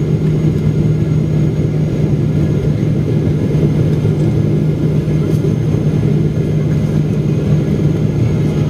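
Steady cabin drone inside a Boeing 777-300ER on approach to land: GE90 engine and airflow noise with a strong low hum.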